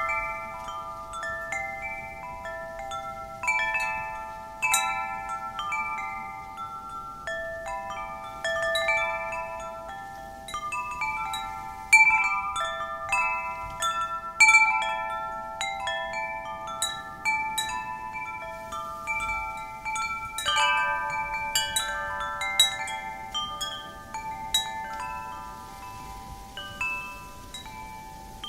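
Metal wind chimes ringing, their tubes struck irregularly, several at a time, each tone ringing on and fading, over a faint wind hiss.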